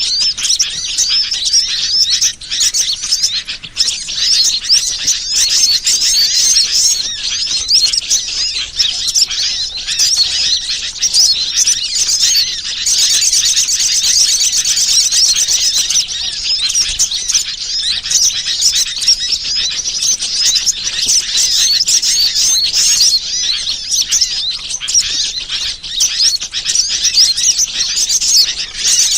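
Bird-lure recording: a dense, unbroken chatter of many small birds chirping at once, high-pitched and overlapping, played to draw wild birds in.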